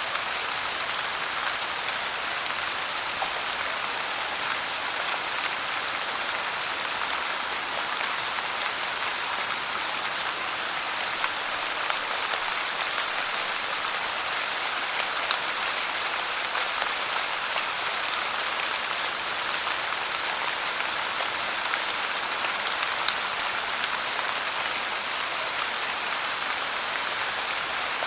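Steady pouring rain, an even hiss with scattered sharper drop hits.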